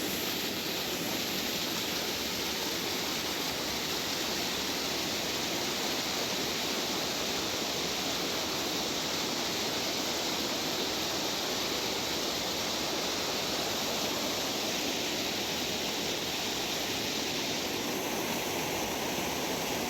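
Water rushing steadily, an even hiss that does not change.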